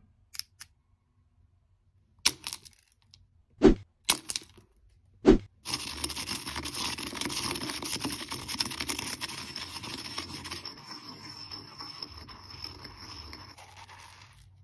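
Something being crushed: a few sharp cracks and snaps, then about nine seconds of continuous crackling, grinding noise with a steady high tone in it, slowly fading before it stops near the end.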